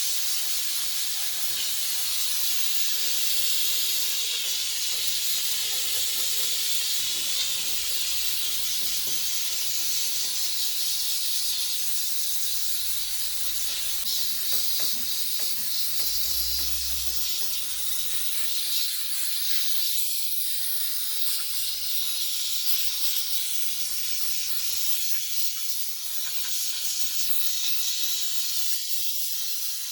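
Steady high-pitched hiss of a pressurised jet used to clean a car engine bay, running without a break.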